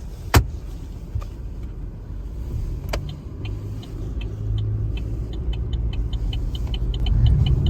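Car running and driving, heard from inside the cabin as a steady low rumble that grows louder toward the end. A sharp click comes under half a second in and another at about three seconds, and a fast series of light ticks runs through the second half.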